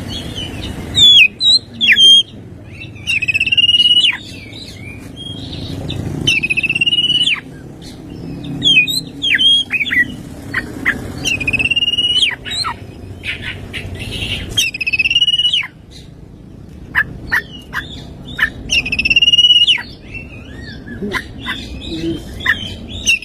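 Oriental magpie-robin (kacer) in full song. Wavering whistled notes are held for a second or so and repeated every few seconds, mixed with quick sharp chips and downward-sliding calls.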